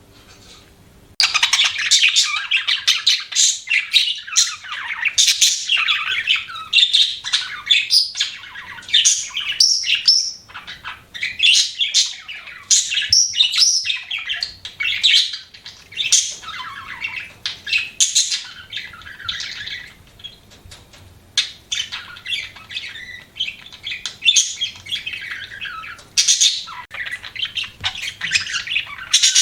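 Budgie (budgerigar) chirping and chattering: a dense, fast stream of short, high twittering calls that starts about a second in.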